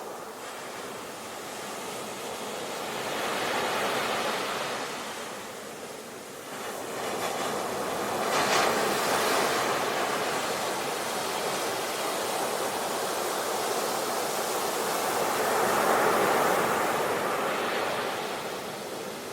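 Sea waves washing in and drawing back in slow swells, three surges in all. The strongest breaks sharply about eight seconds in.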